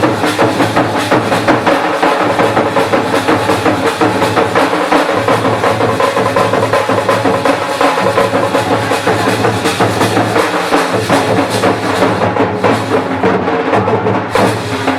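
Traditional Jharkhandi drum band of dhank, nagara and tasa drums with jhanjh cymbals playing a fast, dense, continuous rhythm.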